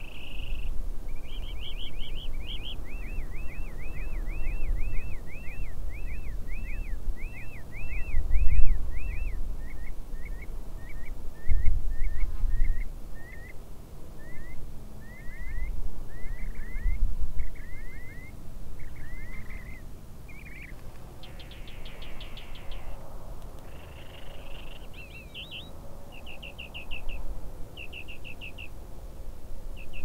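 A bird singing runs of short repeated chirps, each run a different note, with brief pauses between runs. Low rumbles sound underneath, loudest about eight and a half seconds in.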